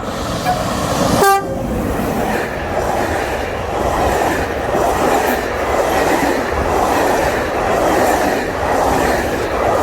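Train passing close by, with a short horn blast about a second in, then a steady loud rumble with a regular clatter of wheels over the rails.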